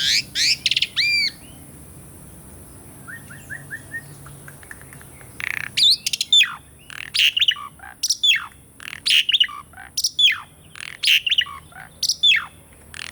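Javan pied starling (jalak suren) singing: a burst of loud whistled notes, a lull of about four seconds with a few faint chirps, then a busy run of sharp, mostly downward-sweeping whistles and chattering notes.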